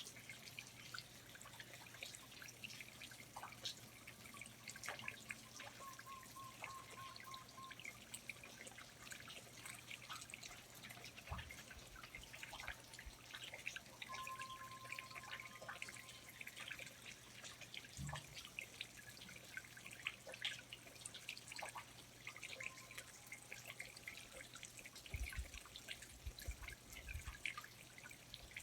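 Rainforest ambience of water dripping from foliage: many small, irregular drips, faint overall. A few short faint tonal calls and a few low thuds are heard now and then.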